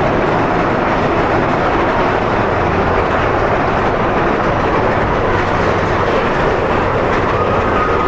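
Big Thunder Mountain Railroad mine-train roller coaster running along its track, with a steady, loud rumble and rattle of the cars.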